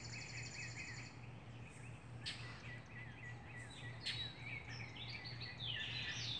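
Wild birds singing: a fast, high trill in the first second, then runs of repeated chirps and varied whistled notes from more than one bird.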